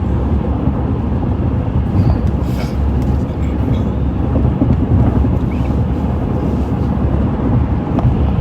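Steady road and engine rumble heard inside a car's cabin while driving on the freeway.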